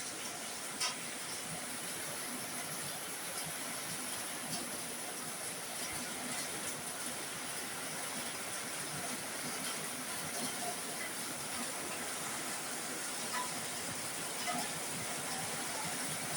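Heavy rain falling steadily on a roof: a dense, even hiss with scattered sharper ticks of drops striking.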